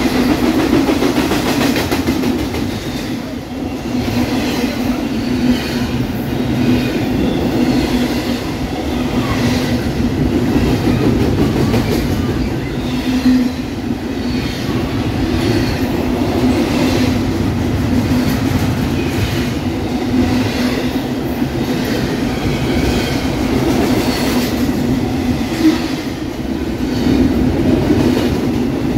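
Double-stack intermodal freight train of container well cars rolling past close by: a steady rumble of wheels on rail, with regular clacking as the wheel sets pass over the rail joints.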